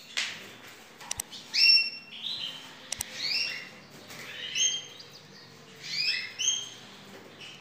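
Canaries calling: short chirps in quick clusters that come every second or two, with a couple of light clicks about a second and three seconds in.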